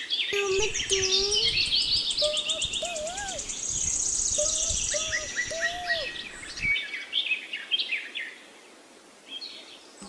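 Small birds chirping and twittering, many quick high calls overlapping, with a fast buzzy trill for a couple of seconds around the middle; the calls thin out and fade near the end.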